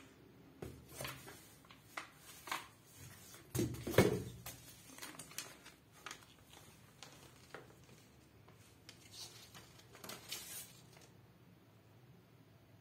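Scattered clicks and knocks from an electric kettle being handled and set up for a test, with the loudest knock about four seconds in and a few light clicks around ten seconds.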